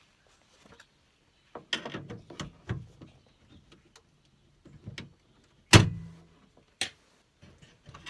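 Clicks and knocks of a van's sliding-door latch parts (cable clips and linkage arms) being worked loose by hand: a rattly cluster of small knocks, then one sharp loud knock about halfway through and a lighter click after it.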